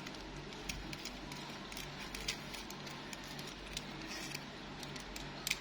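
Light, irregular clicks and ticks of a plastic toy car being handled, a few each second.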